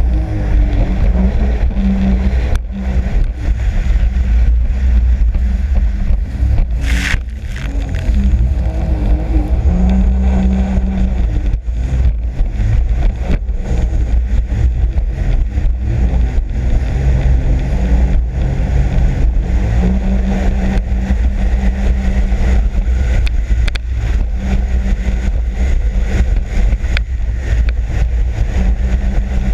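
Sea-Doo RXP-X 260 jet ski engine running under way, its pitch rising and falling with the throttle. Heavy wind rumble on the microphone and repeated sharp knocks run through it.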